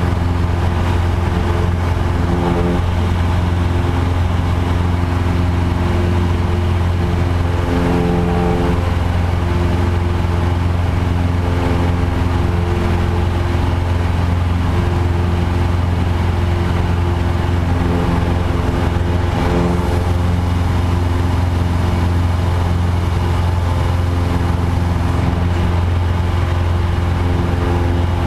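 Light aircraft engine running steadily, with slight shifts in its pitch a few times.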